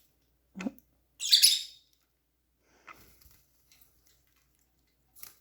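Lovebird chirping: one harsh, loud call about a second in, then a few faint chirps, with a short low knock just before the call.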